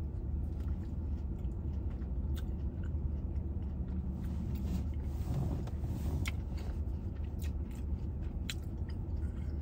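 A person chewing a mouthful of seasoned nacho fries with toppings, with scattered crisp crunches and clicks, over a steady low hum in the car cabin.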